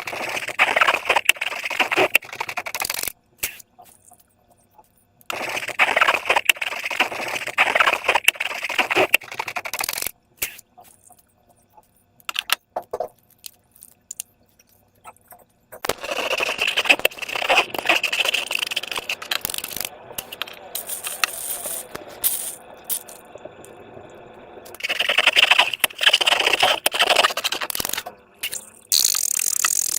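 Slime being squished and worked by hand, with dense crackling and clicking from air pockets popping. It comes in several spells of a few seconds each, with short silent pauses between them.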